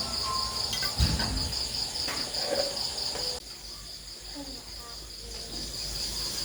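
Insects, cricket-like, trilling steadily in a rapid pulsing chorus, with a low thump about a second in.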